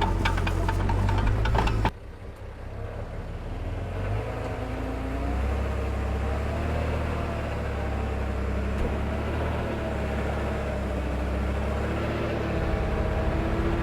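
Heavy-equipment diesel engine running with rapid clattering knocks, cutting off abruptly about two seconds in. After that comes a quieter, steady diesel rumble with a faint wavering whine over it.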